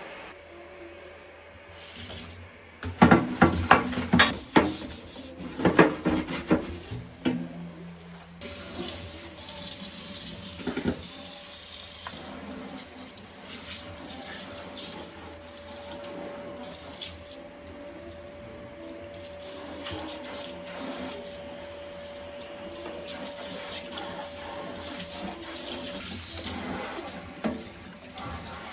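Water tap running into a sink in a steady hiss. Before it, a few seconds in, comes a run of loud clattering knocks.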